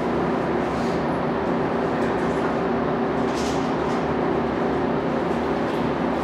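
MARC commuter train standing at the station platform, its locomotive humming steadily at idle with a few constant low tones under a steady rush of noise.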